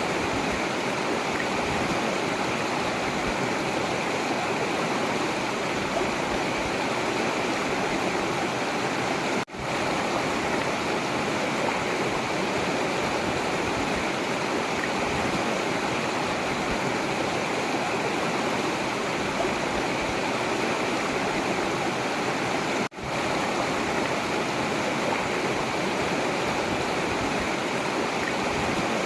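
Forest river flowing steadily, a constant rushing of water. The sound cuts out for an instant twice, about a third and three quarters of the way through.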